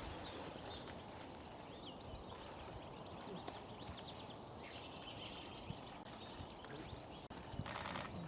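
Small birds giving many short, thin high calls over steady outdoor background noise, with a brief burst of noise near the end.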